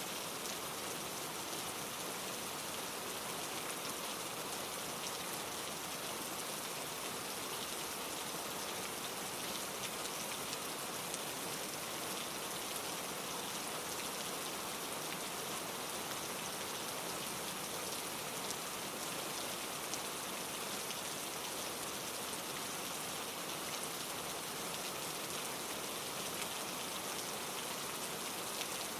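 Steady rain falling: an even hiss of many drops with faint individual drop ticks scattered through it.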